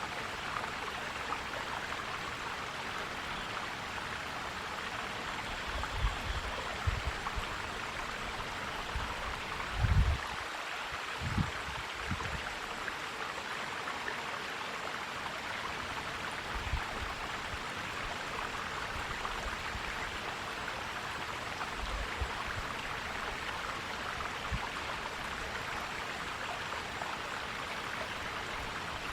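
Mountain stream flowing and gurgling steadily. A few short, low thumps break in, the loudest about ten seconds in, with smaller ones around six, eleven and seventeen seconds.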